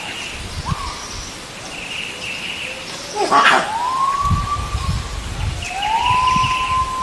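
Long animal calls, each rising and then holding a steady pitch, twice in the second half, after a sharp loud call about three seconds in. Short chirps and trills run underneath.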